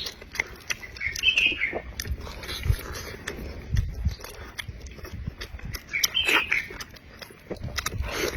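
Close-miked mukbang eating: wet chewing and lip smacking with irregular clicks, and two short squeaky mouth sounds, one about a second in and one about six seconds in.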